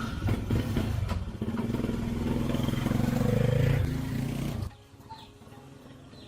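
Restored 225cc motorcycle engine running and revving, its sound building over a couple of seconds, then stopping abruptly about four and a half seconds in.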